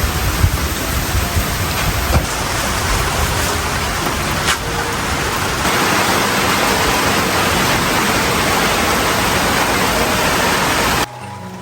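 Steady heavy rain falling, a dense hiss with occasional drip-like ticks. It grows louder about halfway through and cuts off suddenly near the end, giving way to soft music.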